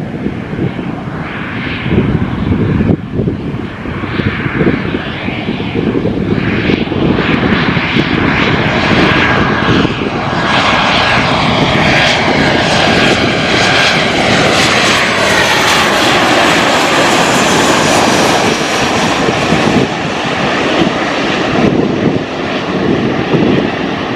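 A jet airliner passes close on its landing approach, its engines growing loud. The engine whine slides down in pitch as it goes by and then fades.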